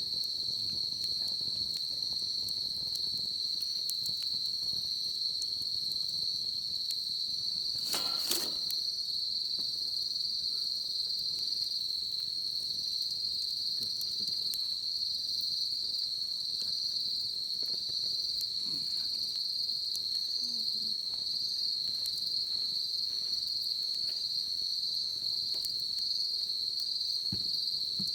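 A steady, high-pitched chorus of crickets, with faint scattered wood crackles from a bonfire and one brief louder snap about eight seconds in.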